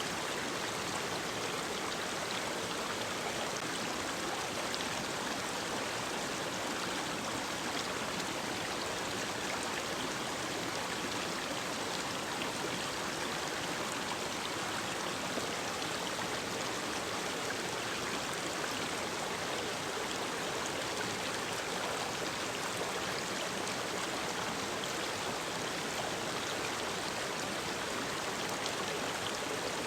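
Mountain stream running steadily over rocks, a constant rushing of water.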